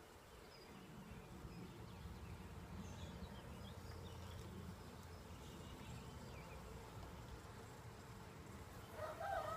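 Honeybees buzzing as a low, steady hum around an open hive while its frames are lifted out and inspected, with faint bird chirps through the middle.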